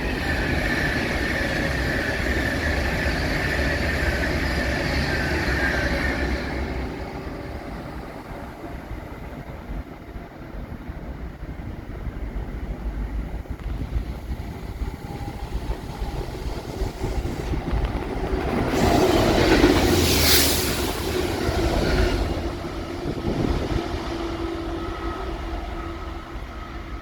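Class 66 diesel locomotive 66787 and its rail treatment train passing, engine running and wheels rolling on the rails. It is loudest and steady for the first several seconds, quieter in the middle, with a louder burst of noise about two-thirds of the way through.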